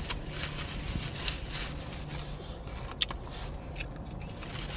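Mouth sounds of someone eating a chicken nugget: chewing, with a few short, sharp clicks over a low steady hum.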